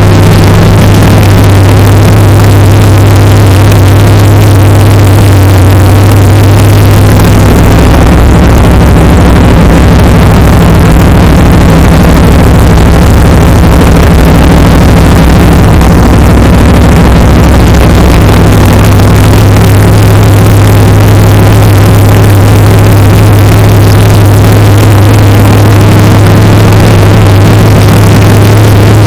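Swapped-in LS1 5.7-litre V8 idling loud and close, warming up after a cold start. The steady idle note shifts for about ten seconds in the middle, then settles back.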